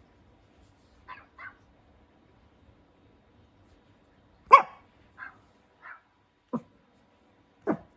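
Dog barking in separate calls: two soft short yips about a second in, then a loud sharp bark about halfway, followed by softer yips and two more sharp barks near the end.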